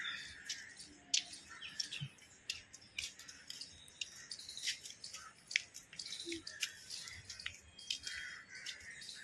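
Small birds chirping, with many short high calls scattered throughout.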